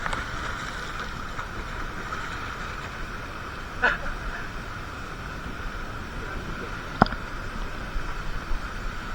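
Steady rushing of a waterfall pouring into a pool. A short call comes about four seconds in, and a single sharp click about seven seconds in.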